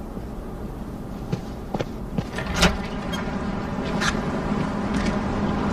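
Street ambience with a steady low traffic rumble, broken by a few short sharp clicks and knocks, and a steady hum coming in about two-thirds of the way through.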